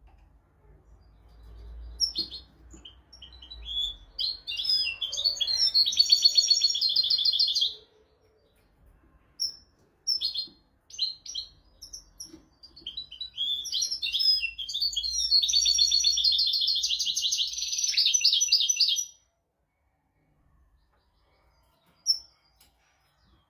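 European goldfinch singing: two long song phrases, each ending in a rapid trill, with scattered short notes between them.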